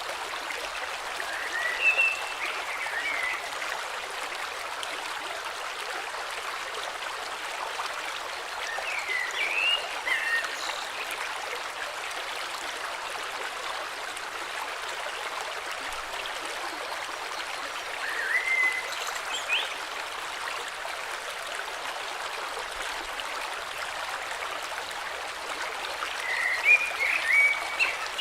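Flowing river, a steady rush of water, with a bird singing short chirping phrases four times, roughly every eight seconds.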